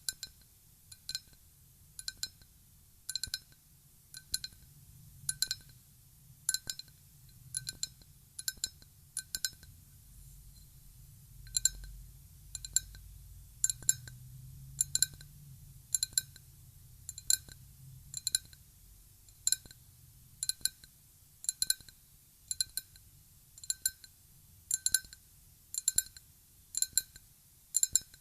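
Ryukyu glass being tapped lightly in quick clusters of two or three taps, roughly once a second, each tap ringing with a clear, bright glassy tone.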